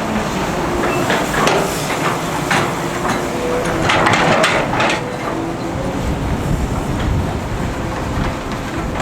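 Excavator diesel engine running steadily, with a run of sharp metallic clanks and knocks from about one to five seconds in.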